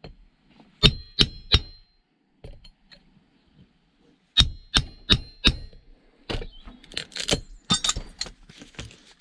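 Hammer blows on metal, each with a short ringing clang: three quick strikes about a second in and four more a few seconds later, knocking metal parts apart. Lighter clanking and rattling follows as the pieces shift.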